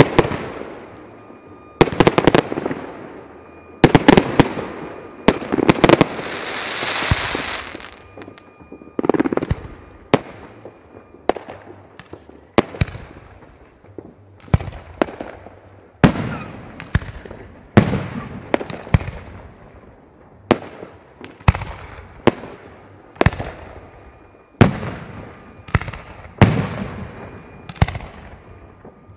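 New Year's fireworks going off in a steady string of sharp bangs, roughly one a second, each trailing off, with a burst of hissing crackle about seven seconds in.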